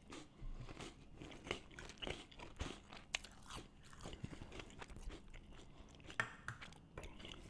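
Faint, irregular crunching of a cracker topped with chicken salad being chewed, together with the light scrape of a small plastic spoon against the inside of a metal can.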